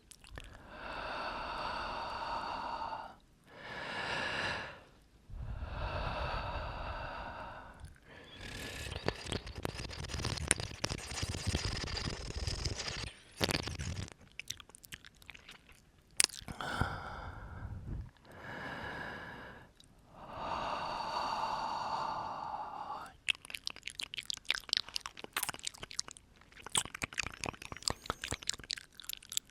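Close-miked breathing: a series of slow, drawn-out breaths into the microphone, each lasting one to three seconds. In the last several seconds they give way to a rapid stream of wet mouth clicks and lip smacks.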